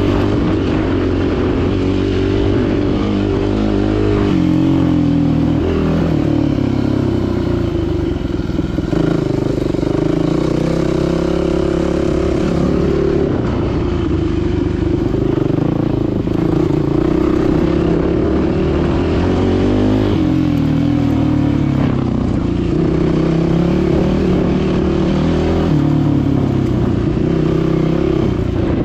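Dirt bike engine running under load on a trail, revving up and dropping back over and over as the rider works the throttle and shifts.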